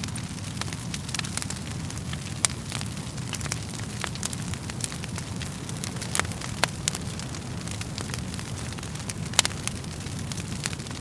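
Wood fire crackling: a steady low rumble under frequent sharp pops and snaps, two of them louder, about two and a half seconds in and about nine seconds in.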